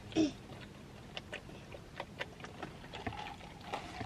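Faint scattered clicks and small handling taps, with one short vocal sound near the start.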